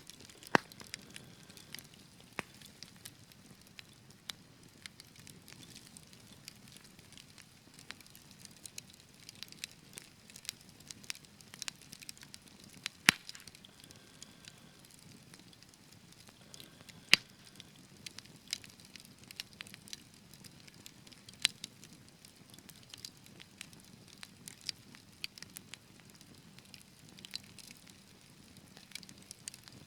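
Wood fire burning in a fireplace, crackling over a low steady hiss, with scattered sharp pops, a few of them much louder than the rest.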